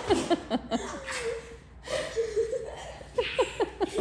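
A person laughing in two bursts of quick, short laughs, one at the start and another about three seconds in.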